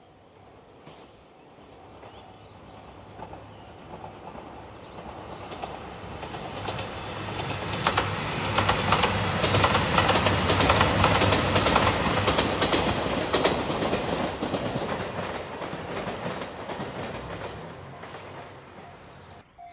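JR Shikoku 2700 series diesel limited express train passing at speed: it builds up over several seconds, runs by with a dense rattle of wheel clicks over the rail joints and a steady low engine tone, then fades away.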